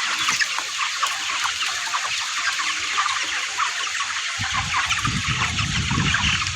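Many chickens clucking together in a dense, continuous chatter of short calls. About four and a half seconds in, a low rumble joins underneath.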